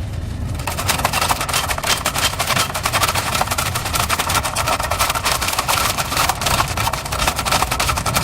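Heavy truck engine rumbling low, joined under a second in by a dense, rapid crackling that goes on steadily over it.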